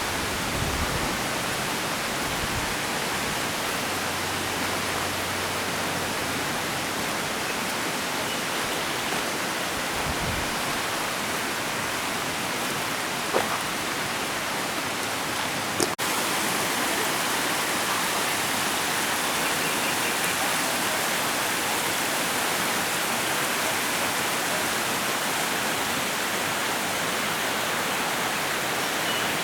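A waterfall in full rainy-season flow: a steady rush of falling water, stepping slightly louder after an abrupt break about halfway through.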